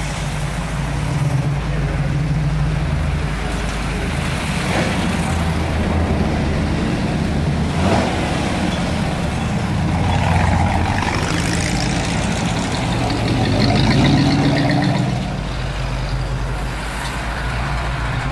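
Classic cars driving slowly past one after another, their engines running with a steady low note that swells several times as each car passes close by.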